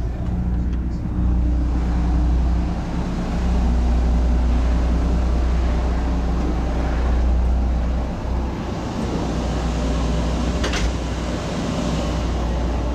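Low, steady rumble and hum of the ship's engine machinery heard aboard, with a single sharp click about eleven seconds in.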